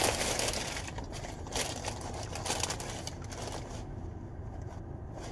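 Paper wrapper rustling and crinkling as a sandwich is handled and unwrapped, in short irregular bursts that die down after about four seconds, over a steady low hum.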